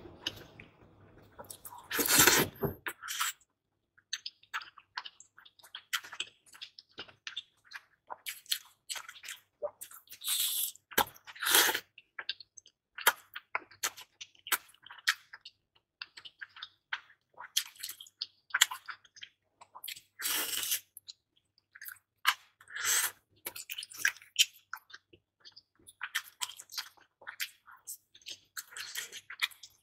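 A person eating close to a clip-on microphone: wet chewing and biting in short irregular bursts, loudest about two seconds in and again near twelve and twenty-one seconds.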